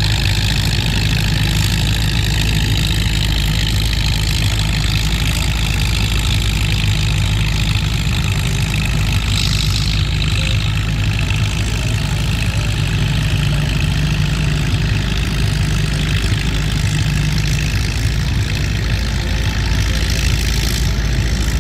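Antique farm tractor engine running steadily at a tractor pull.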